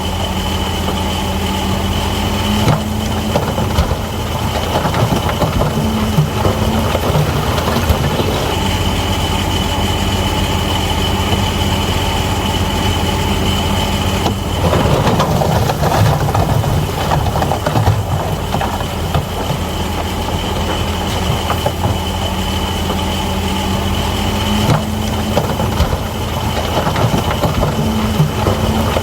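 Crawler bulldozer at work: the diesel engine running steadily, with a steady high whine and irregular clanking and rattling from the machine.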